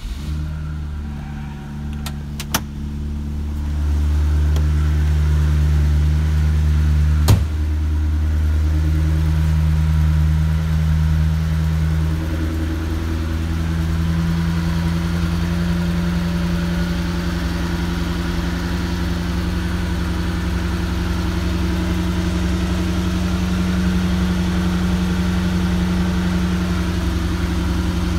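Mercedes-Benz 350SL V8 idling just after a cold start, a steady, even idle that gets louder over the first few seconds and rises slightly in pitch about twelve seconds in. A single sharp click about seven seconds in.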